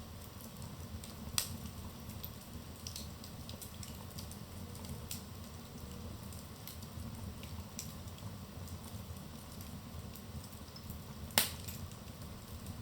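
Wood fire in a fireplace crackling, with a steady low rumble of the flames and irregular small pops, one sharp loud pop near the end.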